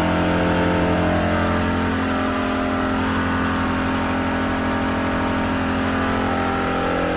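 Air compressor running steadily, reinflating the vehicle's tires toward a preset 40 psi. It is a constant mechanical hum that does not change in pitch or level.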